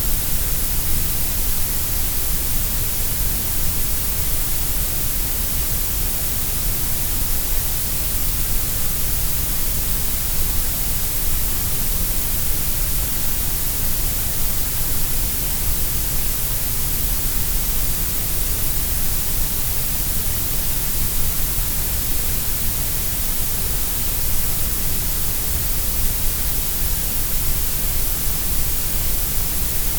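Grey noise: a steady, even hiss with no changes, stronger in the deep lows and the highs than in the middle.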